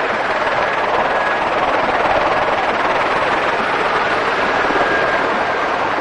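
Helicopter noise heard from inside the cabin: a steady rushing that does not change.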